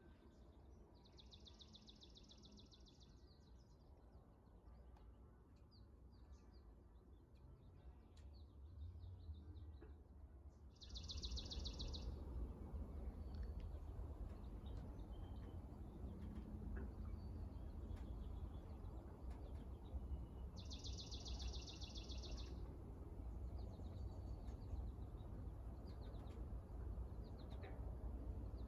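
A songbird singing a fast, high trill of about a second, three times roughly ten seconds apart, with other faint bird chirps between, over a low rumble that grows louder about a third of the way through.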